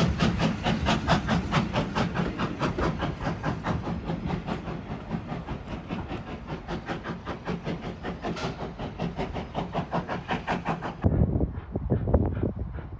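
Steam locomotive working, its exhaust beats coming quick and even and slowly fading as it draws away. About eleven seconds in the sound cuts abruptly to a duller, lower rumble.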